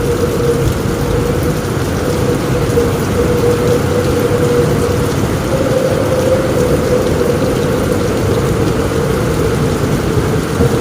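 Heavy rain falling steadily on a roof: a dense, even patter with a steady hum running through it.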